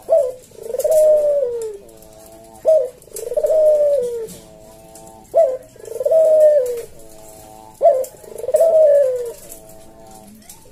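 A puter dove (domesticated Barbary dove) giving its loud perch coo four times, about every two and a half seconds. Each phrase is a sharp opening note, a long falling coo, then a softer low trailing note.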